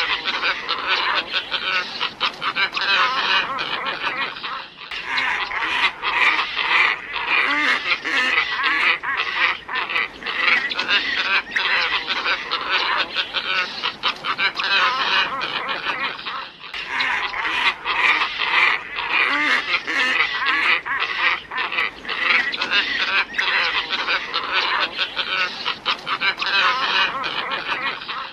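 Glossy ibis lure recording: a flock calling in a dense, unbroken chorus of many overlapping calls. The chorus dips briefly about five seconds in and again about twelve seconds later.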